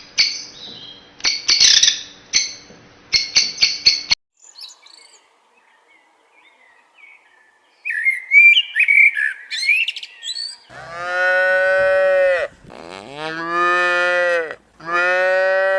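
A string of animal calls: loud, clattering calls with sharp clicks for the first four seconds, then bird chirps, then three long, drawn-out moos from cattle, each nearly two seconds.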